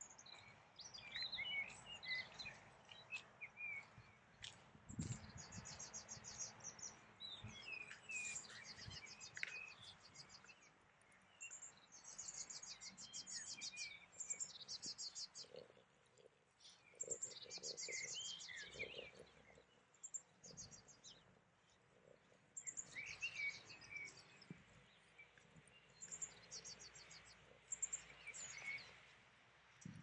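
Songbirds singing and calling: short chirping phrases mixed with bouts of rapid, high repeated trills, coming and going throughout.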